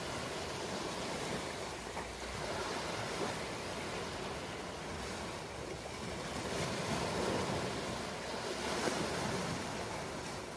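Ocean waves washing onto a shore, a continuous surf hiss that swells and eases, loudest a little past the middle.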